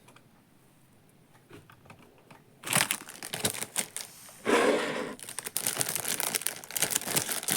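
Crinkling and rustling of plastic film or paper being handled. It is faint for the first couple of seconds, with a few light clicks, then becomes loud and continuous about a third of the way in, with a louder burst near the middle.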